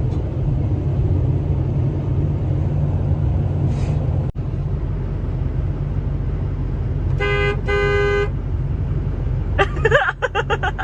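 Two short vehicle horn honks in quick succession about seven seconds in, over the steady low rumble of a vehicle running.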